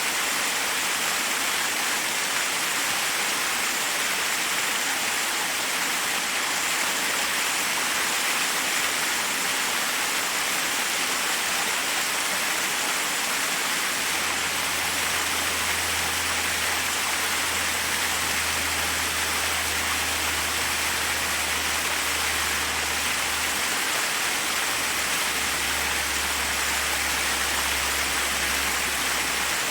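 Forest waterfall: a steady rush of water cascading over rocks. A faint low rumble joins about halfway through.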